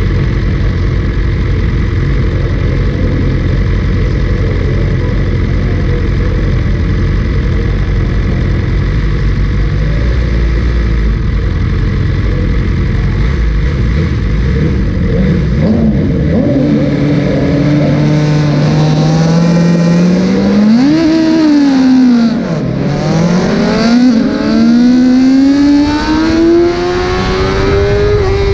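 Superbike engine with a steady low rumble at first. From about 15 seconds in it revs up, its pitch climbing through the revs, drops sharply about 22 seconds in, then climbs again.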